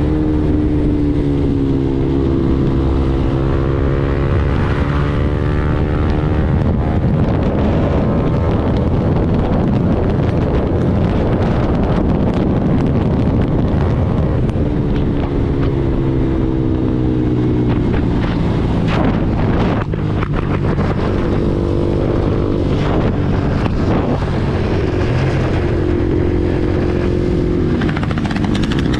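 KTM Duke 390's single-cylinder engine running hard through an Arrow full-system exhaust at highway speed. The note is steady and loud, its pitch sinking and climbing several times as the throttle is eased and reopened, with a few sharp clicks about two-thirds of the way in.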